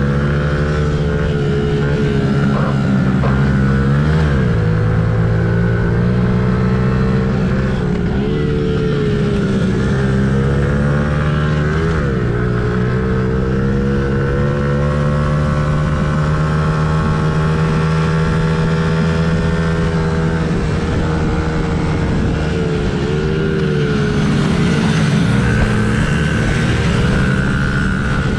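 A mini GP race bike's small engine, heard from onboard, running hard under throttle. Its note drops and climbs back several times, about 4, 8, 12 and 23 seconds in, as the bike slows for corners and accelerates out, and it rises steadily along a longer straight in the middle.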